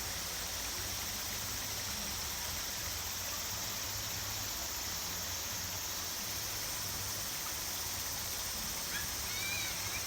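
River water rushing steadily over rocks, an even, unbroken noise. Near the end come a few short, high chirps.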